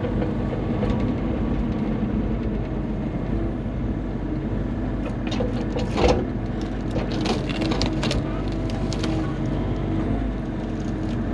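Bobcat E35 mini excavator's diesel engine running steadily under hydraulic work, with a cluster of knocks and wood cracks about five to nine seconds in, the loudest near six seconds, as the bucket grabs a big spruce log.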